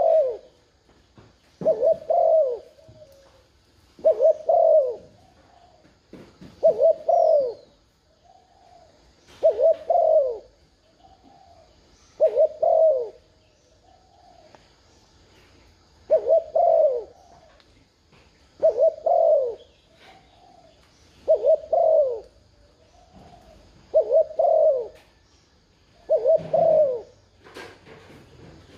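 Spotted dove cooing over and over, a short two- or three-note falling coo phrase about every two and a half seconds. It is the 'gù' coo used as a lure call to stir other cu gáy doves into answering.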